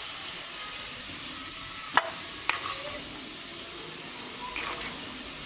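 Potato chunks sizzling in hot oil in a kadai while a plastic spatula stirs and scoops them out, with two sharp knocks of the spatula about two seconds in, half a second apart.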